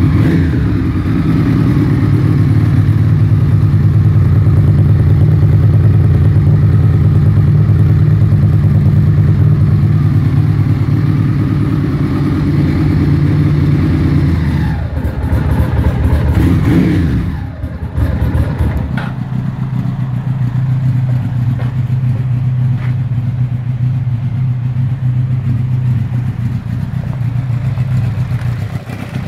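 Motorcycle engine idling steadily. About halfway through the note slides and briefly dips, then it settles into a lower, steady idle.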